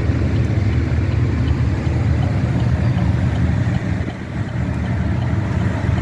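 A truck driving along: a steady low engine and road rumble, which eases briefly about four seconds in.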